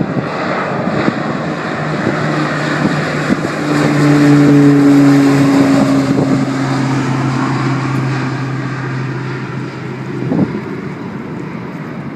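Air Tractor AT-802 Fire Boss's single turboprop engine and propeller droning as the plane passes, growing louder to a peak about four to five seconds in, then easing off with a slow fall in pitch.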